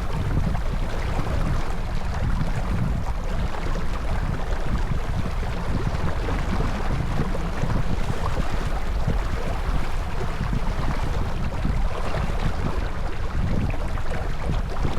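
Steady wind buffeting the microphone aboard a J/24 sailboat under sail, with a low rumble, and water rushing along the hull underneath.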